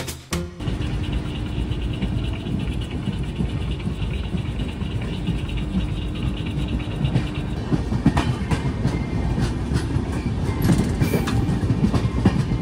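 Express passenger train running on the track, heard from on board: a steady rumble of wheels on rails. From about the middle on, the wheels clatter more busily over the rail joints.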